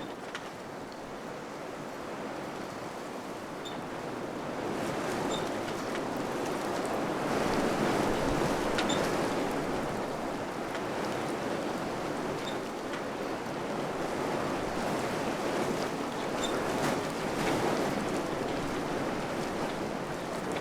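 Wind blowing in gusts, a broad rushing that builds over the first several seconds and then rises and falls, with a few faint ticks scattered through it.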